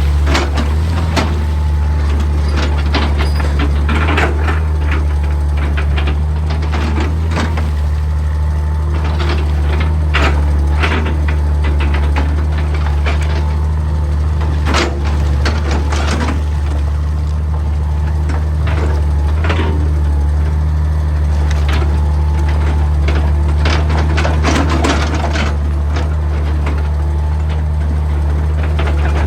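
Excavator's diesel engine running steadily, with irregular knocks, clanks and scrapes as it works rock.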